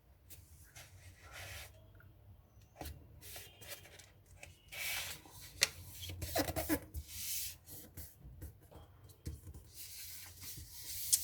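A sheet of paper being folded and creased by hand, fingers pressing and sliding along the fold in several short rubbing strokes with a few small clicks and crackles.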